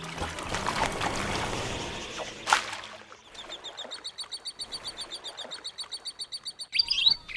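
Outdoor natural ambience: a steady rushing noise for about three seconds, then a rapid, even series of high chirps, about seven a second, and louder bird chirps near the end.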